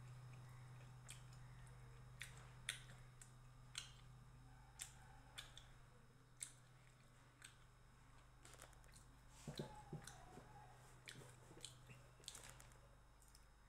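Faint, close-up mouth sounds of a person chewing roti and chicken: irregular wet clicks and smacks every second or so, over a low steady hum.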